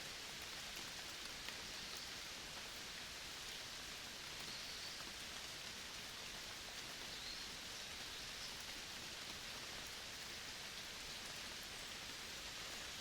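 Forest ambience: a steady, even hiss much like light rain, with a few faint high chirps now and then.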